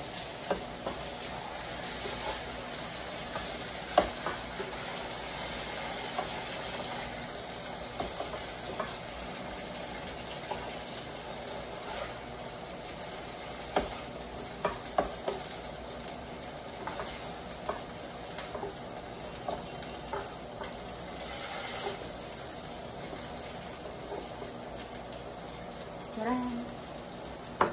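Fried tofu sizzling in hot oil in a wok as it is scooped out with a wooden spatula, with scattered clicks and scrapes of the spatula against the pan.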